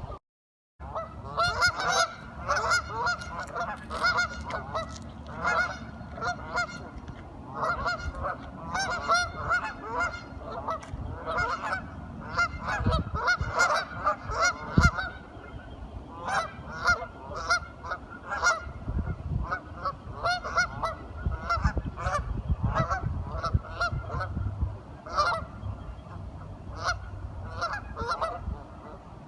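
Several ducks calling over one another in quick runs of short calls, with a brief silent dropout just after the start.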